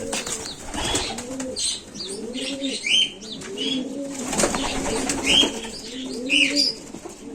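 Racing pigeons cooing over and over in the loft, with short high chirps from smaller birds mixed in and a flutter of wings about four and a half seconds in.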